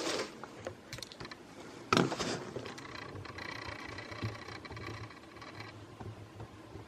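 Clicks, knocks and scraping from hardware being handled, with one loud knock about two seconds in, followed by a faint steady hum.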